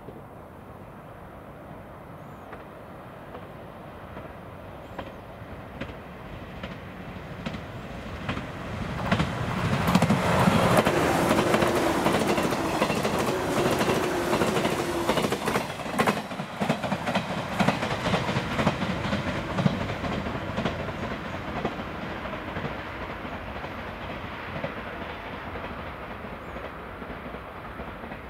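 JR West 413 series six-car electric train approaching and passing close by, its wheels clacking rhythmically over the rail joints as the cars go past. The sound builds, is loudest near the middle, then slowly fades as the train runs off into the distance.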